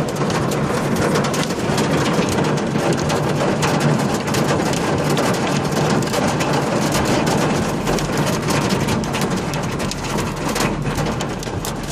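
Hail falling: a dense, steady clatter of hailstones hitting surfaces, easing a little near the end.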